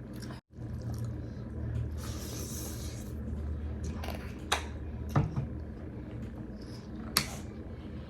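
Close-miked eating sounds from a meal of rice, dal and curry: a soft hiss about two seconds in, then three sharp clicks of dishes or utensils a second or two apart, over a steady low hum.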